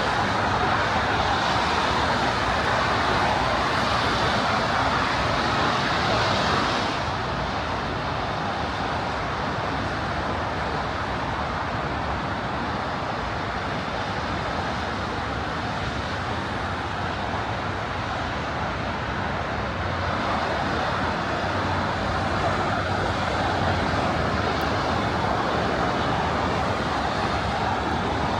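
Steady traffic noise, an even hiss of passing vehicles with no single event standing out; it drops a little about seven seconds in and swells again about twenty seconds in.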